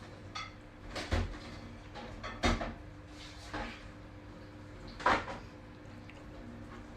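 A few sharp knocks or bangs, the loudest about one, two and a half and five seconds in, over a steady low hum.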